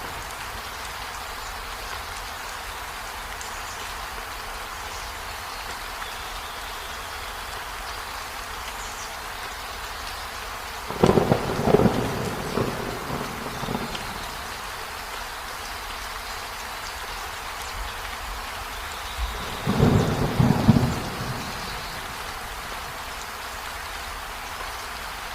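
Steady rain falling. Thunder rumbles twice, once about eleven seconds in and again about twenty seconds in, each lasting two to three seconds, the second a little louder.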